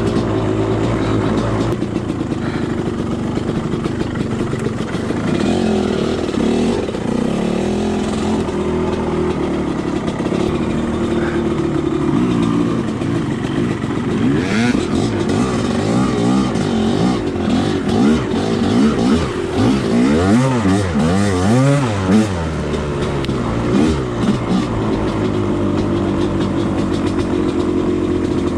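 Two-stroke dirt bike engine revving up and down as it is ridden, the pitch swinging rapidly over and over, with the quickest swings through the middle stretch.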